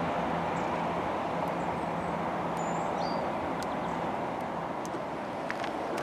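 A vehicle's steady running noise, with a low hum that fades away about halfway through, and a few short bird chirps.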